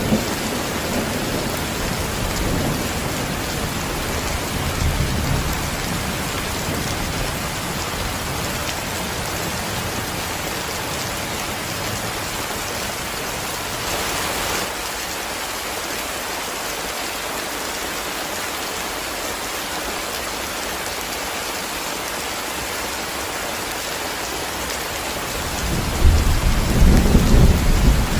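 Heavy rain falling steadily, with thunder: a low rumble dying away in the first few seconds, and another rumble of thunder starting about two seconds before the end.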